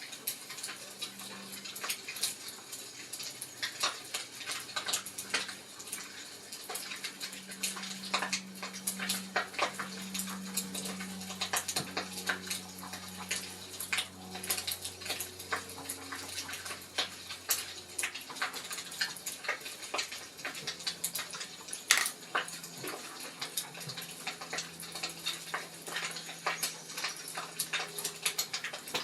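Wood fire crackling, with irregular sharp pops and snaps, one louder pop about 22 seconds in, over a faint low hum.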